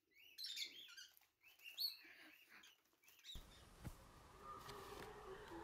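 Faint, quick, high chirping calls of small birds, rising and falling in pitch. About three seconds in they cut off and give way to a steady low hum.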